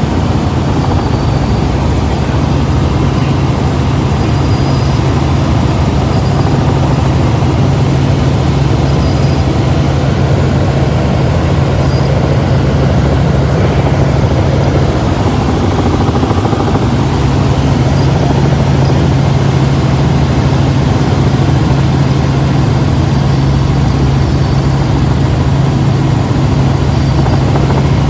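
Helicopter in flight, heard from inside the cabin: a loud, steady drone of engine and rotor with a deep hum underneath.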